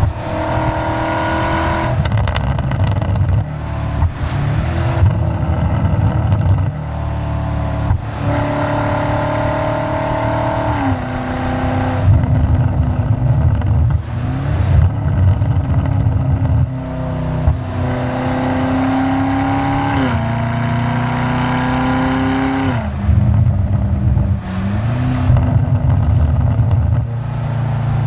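BMW M5 Touring's twin-turbo V8 through a DCE cat-back exhaust with X-pipe and OPF delete, heard close to the tailpipes while the car drives hard. The engine note climbs under load and drops sharply at each upshift, several times over, with a heavy low rumble throughout.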